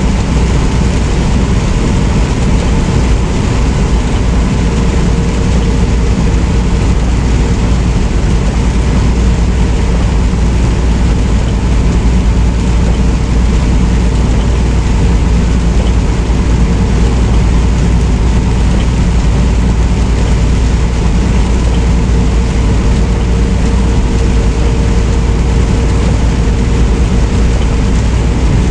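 A semi truck driving at steady speed: a loud, even drone of engine and road noise with a faint steady hum running through it.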